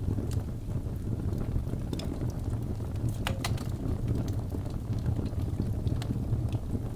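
Wood fire burning in a fireplace: a steady low rumble of flames with scattered sharp crackles and pops from the logs, two louder pops a little past the middle.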